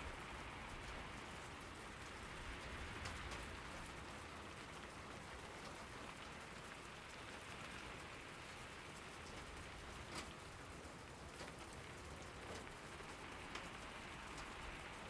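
Steady rain falling on surfaces, an even hiss with occasional sharper drop taps.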